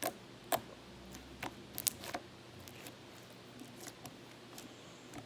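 Slime being poked and squished by hand, giving a scattering of sharp sticky clicks and pops at irregular intervals.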